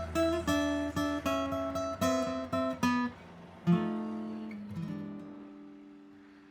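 Background music: acoustic guitar strumming a quick run of chords, then a final chord about four seconds in that rings out and fades away.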